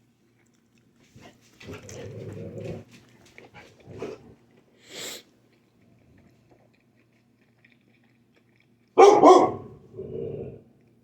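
Dog barking at the neighbours. Scattered softer sounds come first, then two loud barks close together near the end.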